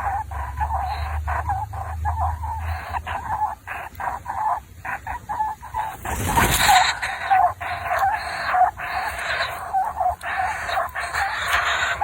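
Baby birds cheeping rapidly and without pause, short repeated calls of nestlings begging for food. A brief rush of noise cuts across them a little past halfway.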